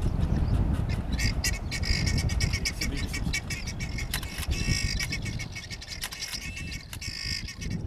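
Birds chirping and squawking in quick, short calls, many per second, over a steady low rumble.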